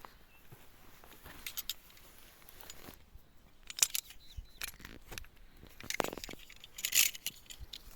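Scattered crackles and rustles of dry vegetation being trodden or handled, in short irregular bursts, the loudest about seven seconds in.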